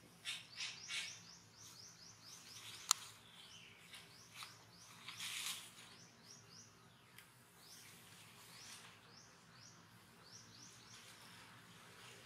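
Small birds chirping in quick runs of short, high, falling notes, with a few bursts of rustling in dry leaf litter and one sharp click about three seconds in.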